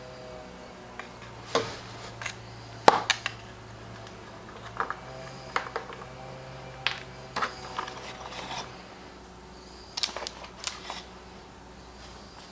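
Scattered clicks and light knocks of hand tools and small parts being handled during carburetor work on a Husqvarna 125B leaf blower, the sharpest about three seconds in, over a faint steady hum.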